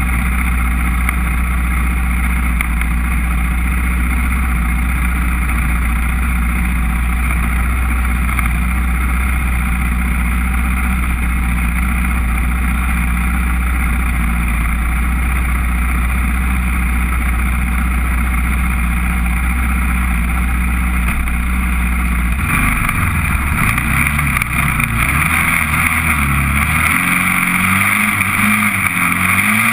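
Honda TRX400EX ATV's single-cylinder four-stroke engine running at a steady speed. About three-quarters of the way through, its pitch starts rising and falling as the throttle is worked.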